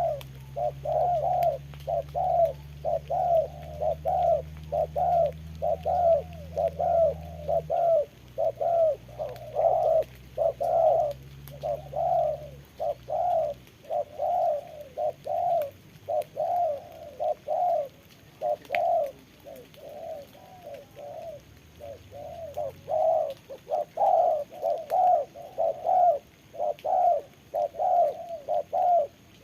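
Spotted doves cooing, short notes repeated about twice a second without a break. A low steady hum runs under the first part and stops about halfway through.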